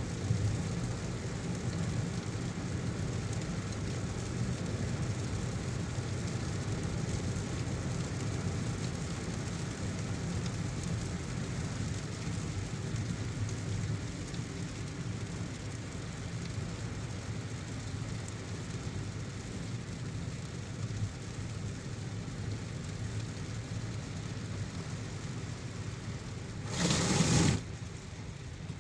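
Car driving through heavy rain: a steady mix of rain noise and low road and engine rumble. About a second before the end, a brief, loud rush of noise lasts under a second.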